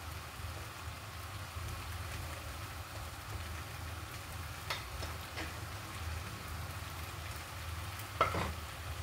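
Chicken pieces sizzling in a wok of hot spice paste, a steady frying hiss over a low hum. A few light clinks of a metal spoon against the wok midway, and a louder scrape near the end.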